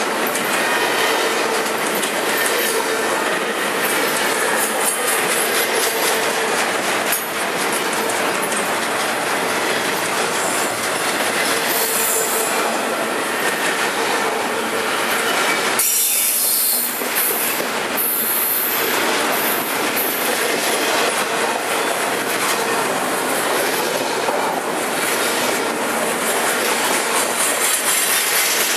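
Double-stack intermodal container train passing close by at speed: a steady rush of steel wheels on rail, with clicks as the wheels cross rail joints and a faint steady ringing tone. A harsher high hiss flares briefly about 12 seconds in and again around 16 to 18 seconds in.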